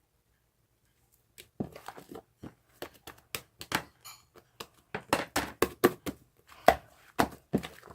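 Irregular clicks, taps and rustles of small objects being handled close by, starting after about a second and a half of silence.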